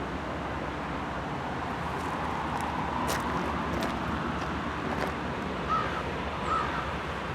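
A crow cawing twice near the end, over a steady rumbling hiss from a freight train still approaching.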